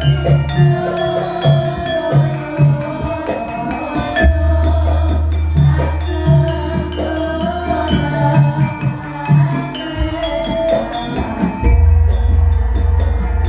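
Music played loud through a PA sound system for a sound check: long, deep bass notes under a steady beat and a melody. The deep bass drops out briefly about ten seconds in and comes back louder.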